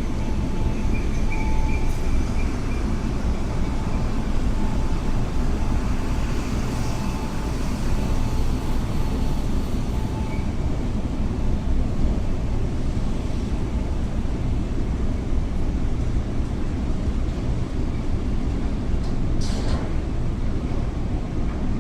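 Steady low rumble of a ferry's engines, heard aboard, with a brief sharp click near the end.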